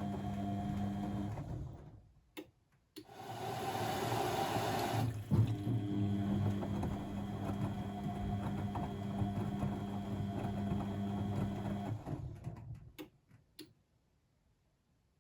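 Blomberg WAF 7442 SL washing machine in its wash cycle. The drum motor hums steadily, stops, and after a brief pause there is a rush of water lasting about two seconds. The motor hums again for several seconds, then stops, with a few sharp clicks in the pauses before it goes quiet.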